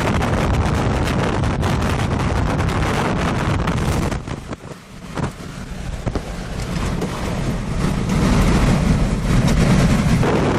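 Strong wind buffeting the microphone with a deep rumble; it drops away briefly about four or five seconds in, then builds back louder toward the end.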